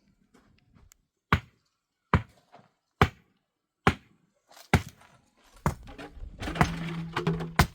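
A run of six sharp, heavy blows, evenly spaced a little under a second apart, followed by a longer stretch of rough noise with a low steady hum near the end.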